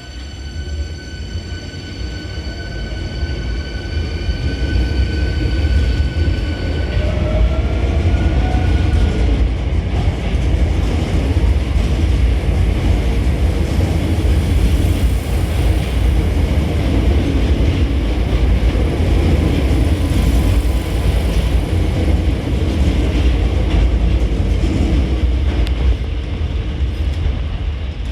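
Hankyu 8300-series electric train pulling away and gathering speed: a stack of steady high whining tones from its motor drive, which shift to a short rising tone about seven seconds in, over a loud, steady rumble of wheels on rail that builds over the first few seconds and then holds.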